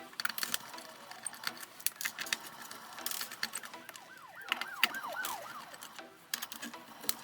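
Small clicks and taps of tools and plastic laptop parts being handled during disassembly, with a quick run of short squeaks about halfway through.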